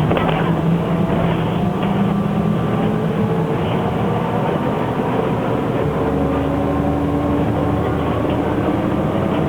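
Shanghai SK5105KGP trolleybus under way, heard from inside: the electric drive's whine over road and body noise. The whine rises gently in pitch over the first few seconds, and a low hum comes in about six seconds in.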